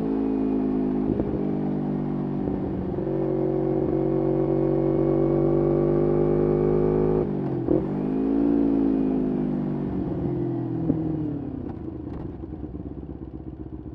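2011 Kawasaki Ninja 250R's parallel-twin engine through a full Graves race exhaust, pulling at steady revs. About seven seconds in the revs dip sharply and pick up again. They then fall away as the bike slows, and settle to a lower, quieter note near the end.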